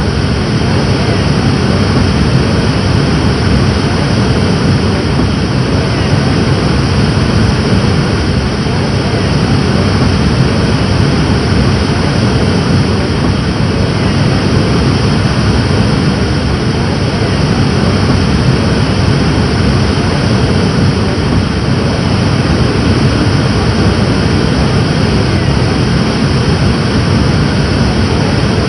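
Rushing water: a loud, steady, even noise with most of its weight low down, unchanging throughout.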